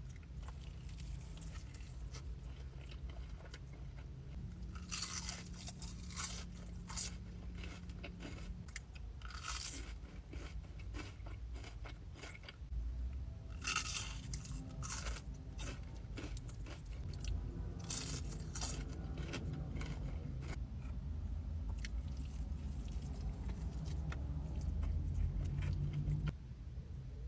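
A person biting into and chewing crunchy food close to the microphone, with several loud crunches spread through the stretch.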